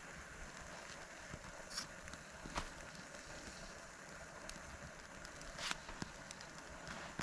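Small wood campfire crackling, with a few sharp pops and snaps scattered over a steady low hiss.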